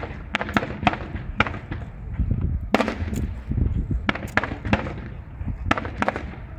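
Aerial fireworks bursting: a dozen or so sharp bangs, some in quick clusters, over a steady low rumble.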